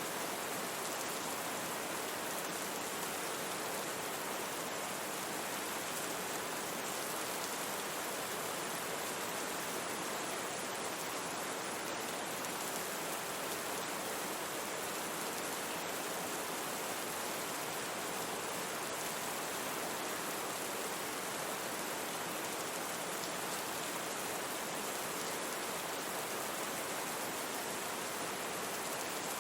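Steady rain mixed with brown noise: an even, unbroken hiss of falling rain over a soft noise bed.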